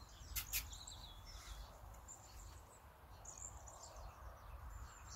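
Faint outdoor ambience: small birds chirping in short trills, over a low steady rumble. Two sharp clicks come about half a second in.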